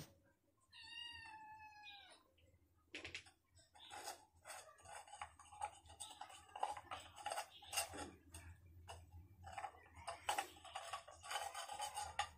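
A cat meows once about a second in, one drawn-out call that slides slightly down in pitch. It is followed by a long run of irregular clicking and rustling.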